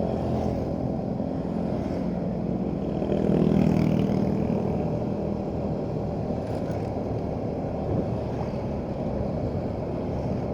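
Motorcycle engine running steadily on the move, with road and wind noise; the engine note swells briefly about three seconds in.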